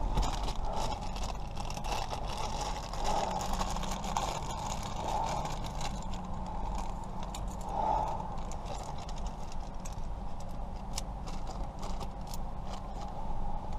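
Small metal lock parts clicking and scraping as they are handled, with a run of sharp clicks near the end, over a steady low hum.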